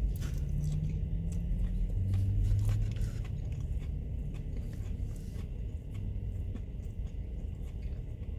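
A person chewing and biting into sauce-covered spicy food, with small wet mouth clicks over a low steady hum.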